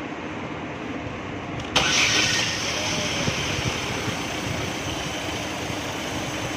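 Chevrolet Cruze engine running steadily at idle. About two seconds in, the sound steps up suddenly and turns louder and hissier.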